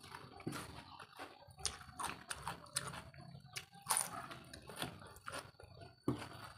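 People chewing and lip-smacking close to the microphone, with bites into food: irregular short clicks and smacks several times a second, the loudest about four seconds in.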